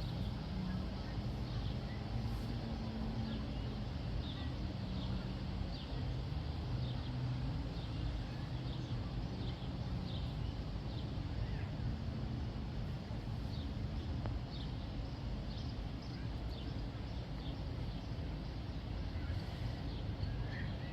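Steady low mechanical hum, with many short high chirps scattered through it.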